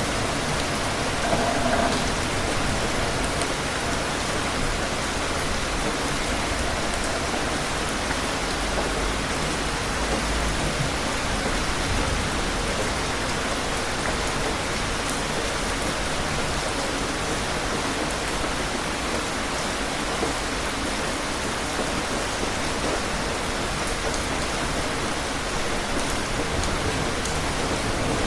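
Steady rain falling in an even hiss.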